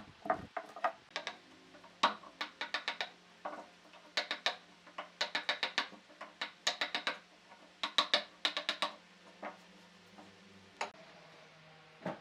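Quick bursts of sharp taps from a tool striking wood, in runs of four to six blows a few times a second, with short pauses between runs.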